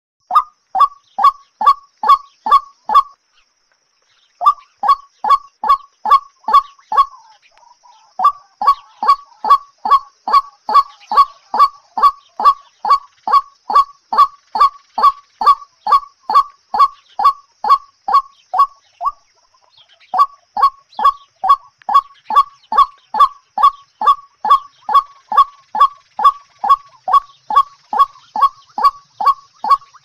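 A bird calling over and over in short, evenly spaced notes, nearly three a second, with a few pauses of about a second, over a faint steady high whine.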